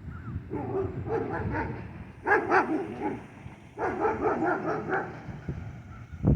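A dog barking in three quick runs of short, high barks, over a steady low rumble.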